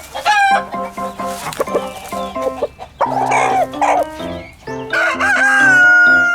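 Rooster crowing, with a long drawn-out final note that holds from about five seconds in and drops away at the end, plus shorter squawking calls earlier, over light background music.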